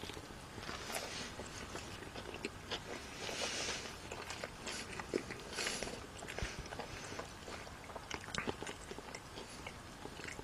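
A person biting into and chewing a mouthful of soft flour-tortilla burrito with lettuce, steak and shrimp: irregular small crunches and mouth clicks, with a few short hissy rustles.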